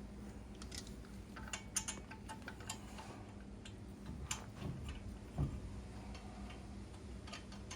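Faint, irregular light clicks and taps of tools and parts being handled.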